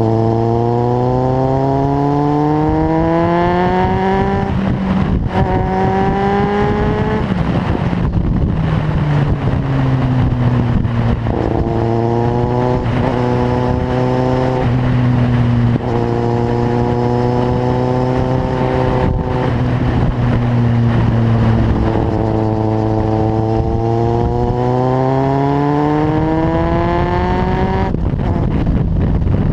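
Kawasaki Z750's inline-four engine through a carbon LeoVince aftermarket exhaust, under way: the pitch climbs through the revs with a gear change about five seconds in, eases off around eight seconds, holds steady at a cruise, then climbs again before dropping off near the end.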